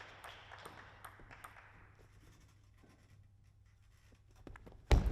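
Crowd applause dying away in a hall, then a hush broken by scattered light taps of a table tennis ball. Near the end, a sudden loud bang as crowd noise breaks out.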